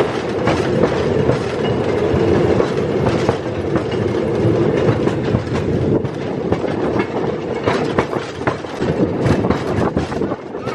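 A railroad motor car running along the track: a steady engine and wheel drone, with the wheels clicking over the rail joints.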